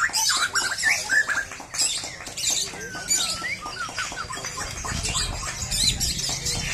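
Several white-rumped shamas (murai batu) singing at once: a dense, overlapping stream of quick whistles, sliding notes and sharp chirps.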